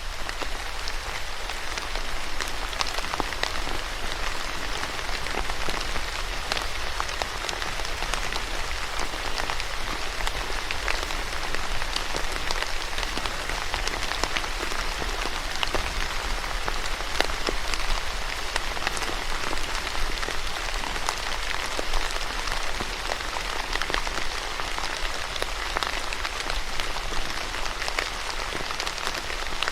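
Steady rain falling, with a continuous hiss and many individual drops ticking on a hard surface.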